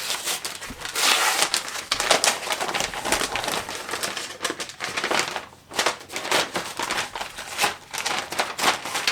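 Small mail packages being torn open by hand, their paper and plastic wrapping rustling and crinkling in a continuous run of irregular crackles, loudest about a second in.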